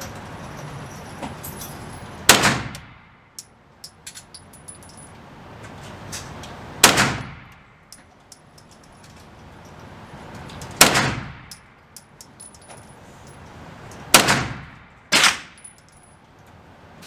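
Five gunshots fired one at a time at a shooting range, each with a short echoing tail: four spaced a few seconds apart, the last two about a second apart. Faint small clicks and ticks come between the shots.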